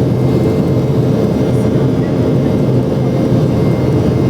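Boeing 717 cabin noise: the rear-mounted Rolls-Royce BR715 turbofans run steadily, giving a constant loud low roar with steady hum tones and no changes.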